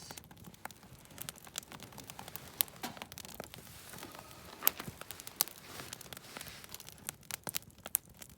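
Wood campfire burning, with irregular crackles and pops.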